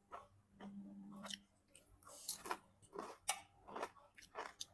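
A person chewing and eating food: irregular short mouth sounds, the louder ones coming in a cluster in the middle.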